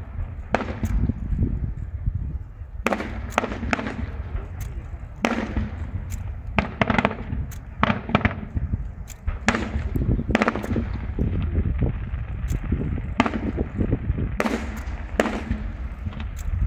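Fireworks display: aerial firework shells going off one after another, with sharp bangs every second or so over a continuous low rumble.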